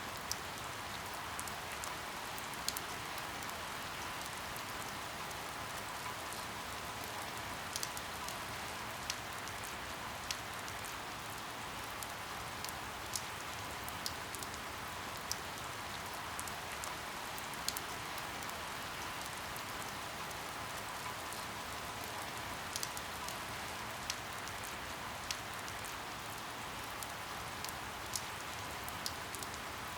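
Steady rain falling, an even hiss, with sharp single drips tapping irregularly about once every second or two.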